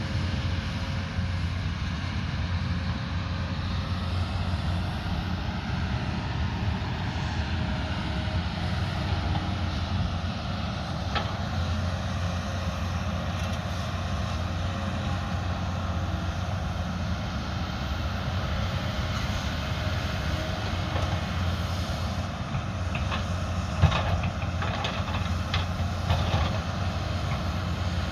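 Diesel engine of a heavy earthmoving machine running steadily under work. Near the end come several sharp knocks, one loud, as the machine works.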